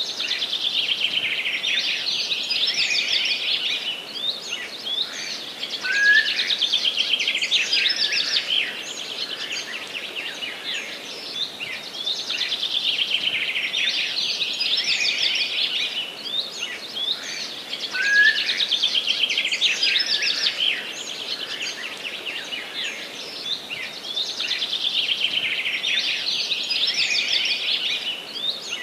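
Forest birdsong: several birds twittering and trilling high, the chorus swelling in waves every few seconds. A short rising note from one bird recurs several times.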